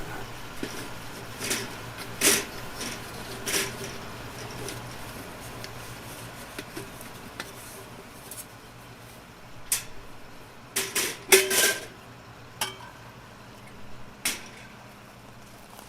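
Irregular knocks and clinks of objects being handled, a few at a time with gaps between them, over a faint steady hum.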